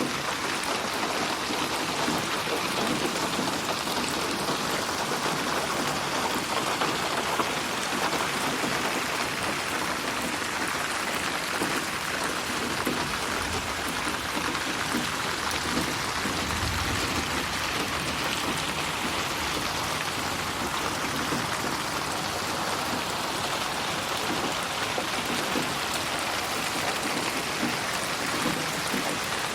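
Steady rain falling in a dense, even patter, processed as 8D audio that moves the sound around the listener.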